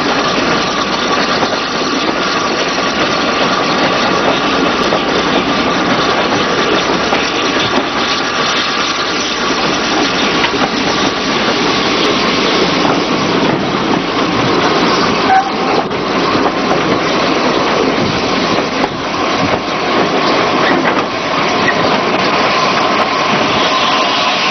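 Steady running noise of a heritage train heard from on board as it rolls along the track, with a faint high tone running through it.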